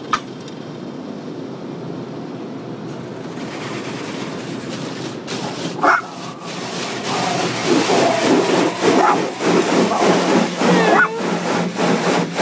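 A car wash heard from inside the car: a steady rush of water spray with repeated knocks on the body, growing louder from about four seconds in. Over it, a dog whines in a wavering, rising voice through the second half.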